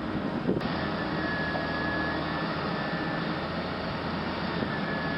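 Heavy machinery engine running steadily, with a thin high whine that sets in about a second in.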